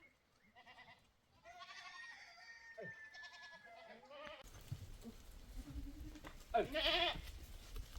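Goats bleating: a run of short wavering calls, several overlapping, then a louder single bleat near the end. A steady background hiss comes in suddenly about halfway.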